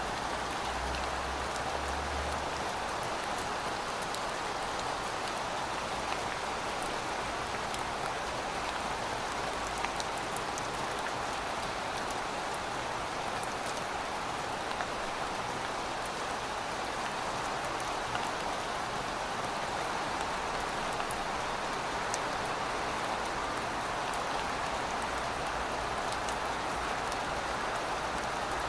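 Steady rain falling, an even hiss with scattered ticks of individual drops striking a surface.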